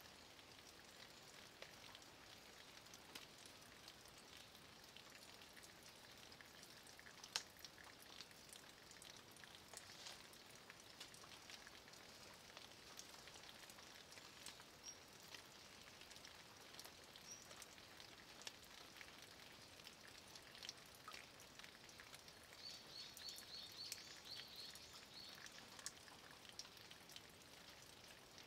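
Light rain falling steadily on a mossy stone wall and surrounding leaves, a soft even hiss with scattered drips; one sharper drip about seven seconds in, and a brief run of high chirps a little past the middle.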